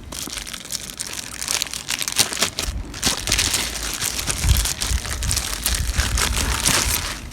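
Packaging being handled and crinkled, a dense run of fine crackles with a few dull low bumps from handling.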